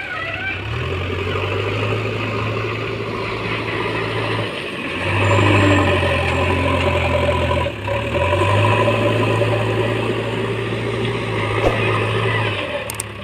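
Heavy machine's diesel engine running steadily, its note dropping and rising again about four and a half seconds in and about eight seconds in.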